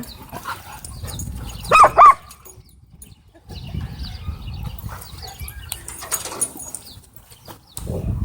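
A dog barks twice in quick succession about two seconds in, over a low rumbling background noise.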